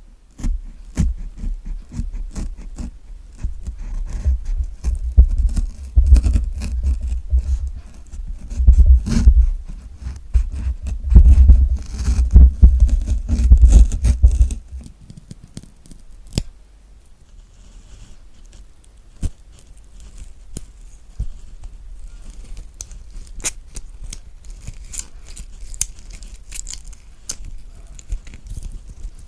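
Close-miked ASMR sounds of a kiwi being cut in half with a knife: loud, dense crackling with heavy low thuds for about the first fifteen seconds. Then a spoon scooping out the kiwi flesh, with quieter scraping and scattered wet clicks.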